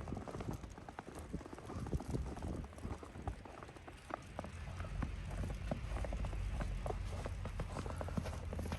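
Footsteps on snow, a steady run of soft irregular steps, with wind buffeting the microphone as a low rumble that grows stronger about halfway through.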